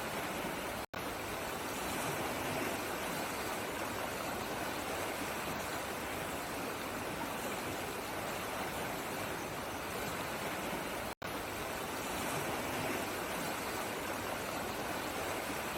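Steady rush of flowing stream water, cut twice by a split-second dropout to silence: once about a second in and again about eleven seconds in.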